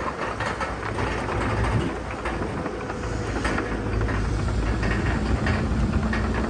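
Heavy diesel machinery running, most likely a bulldozer, with a steady low engine note and a continuous clatter of steel crawler tracks, growing a little louder.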